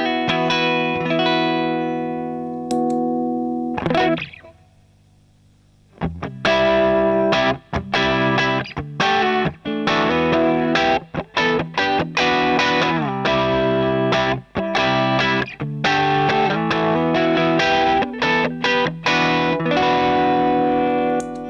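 Electric guitar played through an overdrive pedal with its dials at 12 o'clock. A chord rings out and fades, then after a short silence the guitar plays choppy chords in a quick rhythm.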